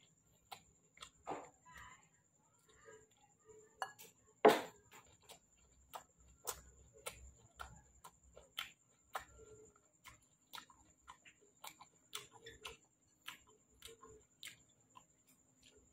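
Close-up mouth sounds of a person eating ripe jackfruit: irregular wet smacks and clicks of chewing, the loudest smack about four and a half seconds in.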